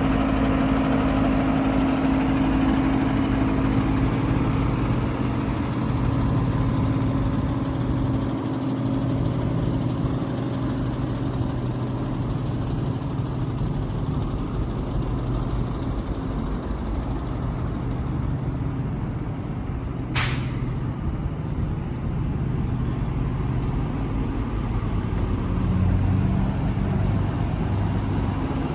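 Diesel engine idling steadily, with one sharp click about two-thirds of the way through.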